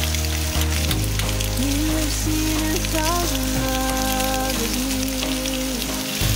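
Meat, sausages and shrimp sizzling in a ribbed grill pan, a steady frying hiss, under background music with a slow melody and steady bass.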